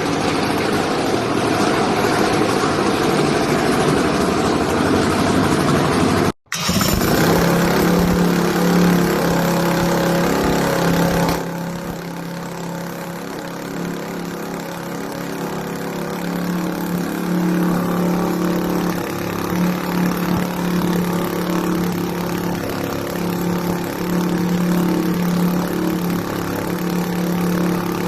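A 550cc UAV engine running. It opens with a loud, even rushing noise, and after a brief cut the engine runs with a steady droning note that drops to a lower level about 11 seconds in and holds there.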